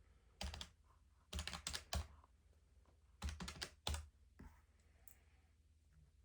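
Keys being typed in short, quick bursts of crisp clicks, with three or four runs of keystrokes in the first four and a half seconds.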